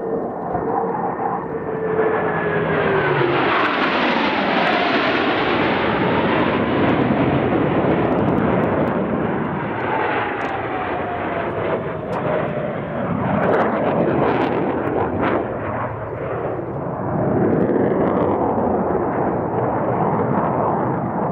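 Boeing F/A-18 Hornet jets flying low past in formation: the jet noise swells within the first two seconds, with whines that fall in pitch as the jets go by. The noise stays loud, dips, and swells again later as another pass follows.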